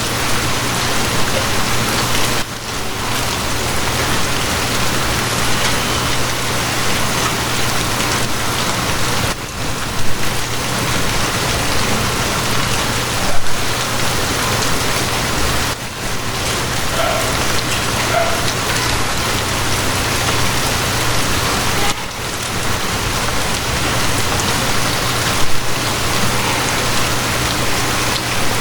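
Steady rain falling, an even hiss with a few brief louder patters about ten, thirteen and twenty-five seconds in. A low steady hum runs underneath.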